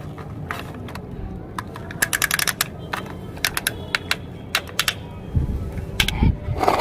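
Small plastic toys being handled. Irregular sharp clicks and clatters come with a quick run of clicks about two seconds in, then a low rumble sets in near the end.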